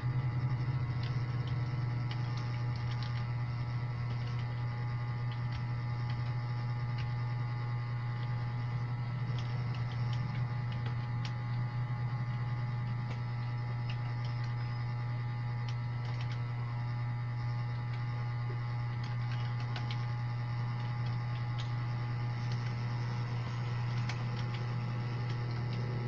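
Computer keyboard typing, faint irregular key clicks in short runs, under a loud steady electrical hum.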